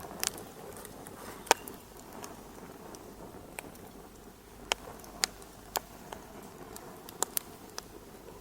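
Wood fire crackling in a fireplace: a steady low hiss of burning with irregular sharp pops, about ten in all, the loudest about one and a half seconds in.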